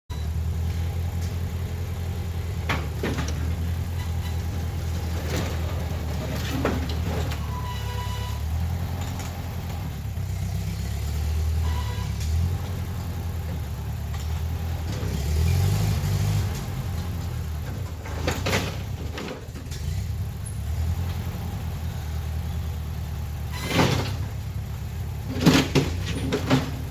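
A vehicle engine idling steadily, with several sharp metal clanks, the loudest near the end.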